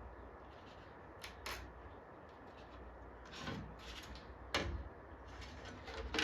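About half a dozen light clicks, knocks and scrapes of tools and parts being handled at a workbench, the sharpest about four and a half seconds in.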